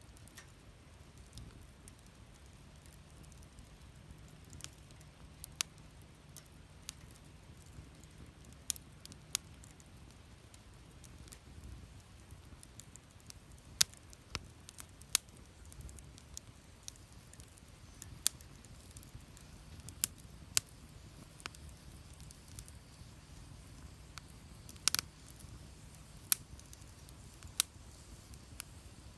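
Wood fire crackling, with irregular sharp pops every second or so and a low steady rumble beneath.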